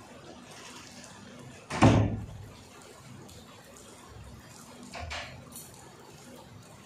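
Faint steady rain noise, broken about two seconds in by a loud single thump that dies away within half a second, and a softer thump about five seconds in.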